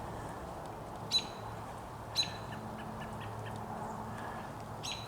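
Wild birds calling: three short, sharp calls spread over a few seconds, with a few faint ticking notes between them.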